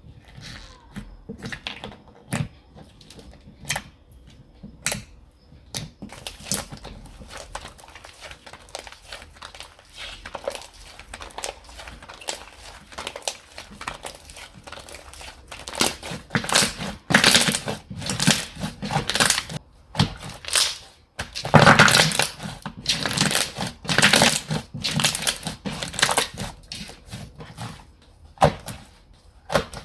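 Slime being squished and pressed by hand, making sticky clicks, pops and crackles. Sparse at first, the sounds become louder and denser about halfway through.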